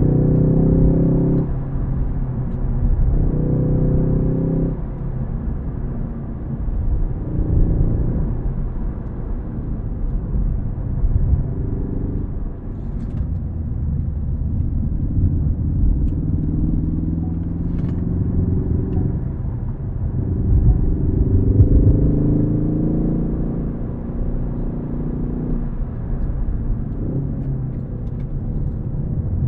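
Ford Focus ST's turbocharged four-cylinder engine under a manual gearbox, pulling up through the revs with a rising note and dropping sharply at each gear change, several times over.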